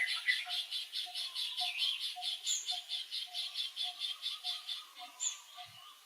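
Outdoor animal chorus: a fast high pulsing call repeating about six times a second that fades near the end, over a lower note repeating about twice a second, with two short chirps that drop in pitch.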